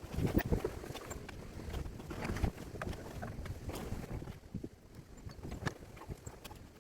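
Irregular knocks and clatter of hand tools and metal parts while working on a car engine, busy at first and thinning out after about four seconds.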